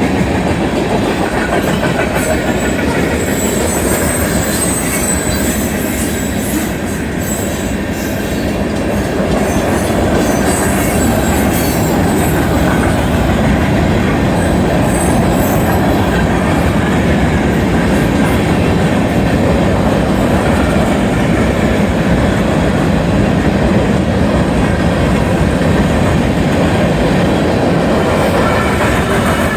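Freight train of short hopper cars rolling past at close range: a steady clatter of steel wheels over the rail joints. A thin high wheel squeal runs through the first third.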